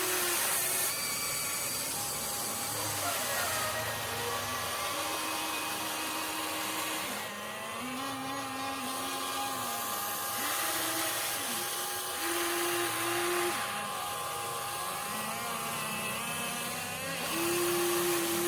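Electric motors of a Huina 1593 RC excavator whining as it works, their pitch stepping and gliding up and down as the boom, arm and bucket start, stop and change speed.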